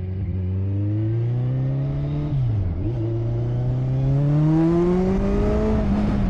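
Motorcycle engine accelerating hard through the gears. The pitch rises, drops at an upshift about two and a half seconds in, rises again, and drops at another shift near the end.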